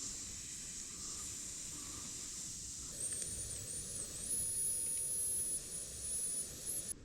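Insects chirring in the grass: a steady, high-pitched hiss-like buzz. From about three seconds in, a thin high whine wavers over it.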